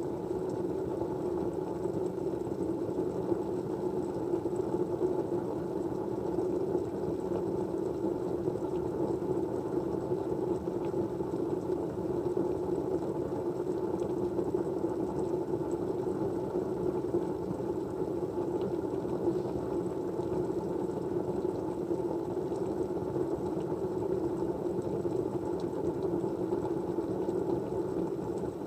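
Steady white-noise background, an even low rush that stays at the same level throughout.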